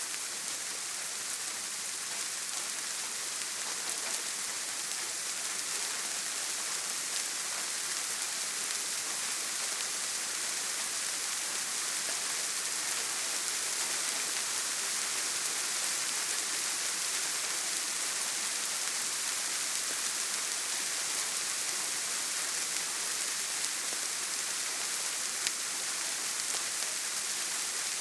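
Steady heavy rain drumming on a tin roof, an even hiss with no thunder, and a single sharper drop tick near the end.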